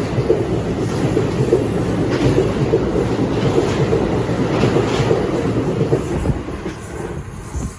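NJ Transit passenger train passing at speed without stopping: a steady rumble and clatter of steel wheels on the rails, fading near the end as the train goes by.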